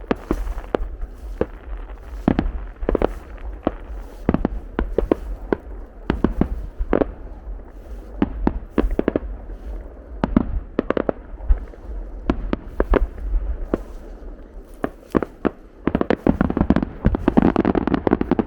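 Fireworks display: aerial shells bursting in a rapid, irregular string of sharp bangs, building to a denser cluster of booms and crackle near the end.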